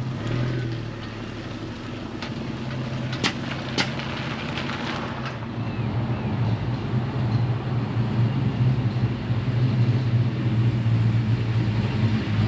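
A vehicle engine running steadily at idle, its low hum growing louder in the second half, with two sharp clicks a little after three seconds in.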